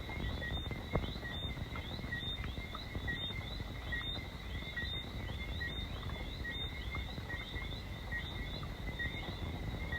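A chorus of small frogs giving short, rising whistled chirps, many voices overlapping without pause. Beneath it is a steady low wash of rain on a sheet-metal roof, and there is a single sharp tap about a second in.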